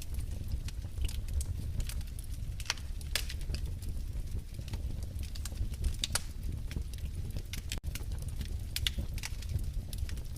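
Wood fire in a fireplace crackling: irregular sharp pops and snaps over a steady low rumble of the flames. The sound cuts out for an instant about eight seconds in.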